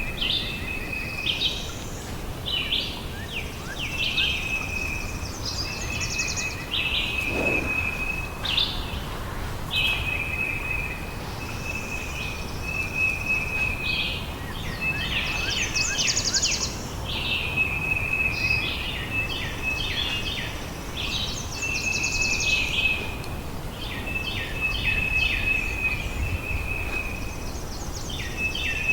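Birds calling in a rainforest soundscape: a high steady whistle held about a second, then a burst of rapid chirps, repeating roughly every two seconds over a steady background hiss.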